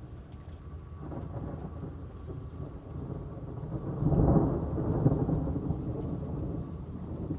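Thunder rolling during a thunderstorm: a low rumble builds from about a second in, cracks loudest about four seconds in, then slowly fades back into the steady noise of the rain.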